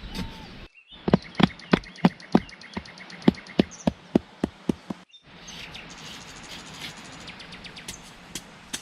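A quick run of sharp, evenly spaced knocks, about three a second, over a steady high insect drone. After about five seconds the knocks stop and only the insects remain, with a few faint ticks.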